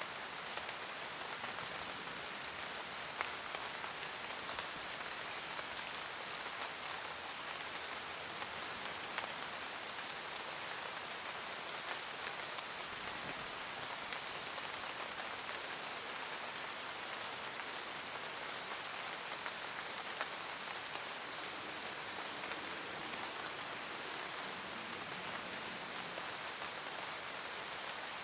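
Steady rain falling in a forest, a dense even hiss with scattered individual drops ticking out now and then.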